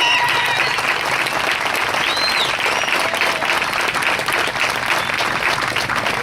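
Crowd applauding, with a short high call about two seconds in.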